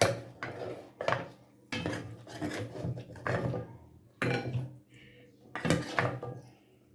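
Cutlery knocking and scraping against dishes during a meal: a string of separate clinks and scrapes, roughly one every second.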